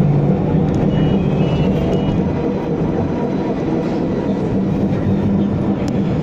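Steady rumble and hum inside a W6 class tram, with three short high beeps about a second in.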